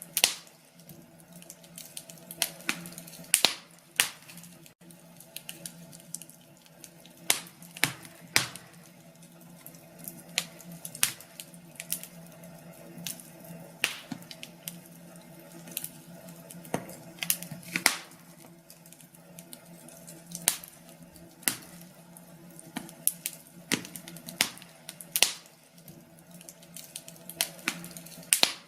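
Wood fire burning in a fireplace, crackling with irregular sharp pops, some much louder than others, over a faint steady low hum.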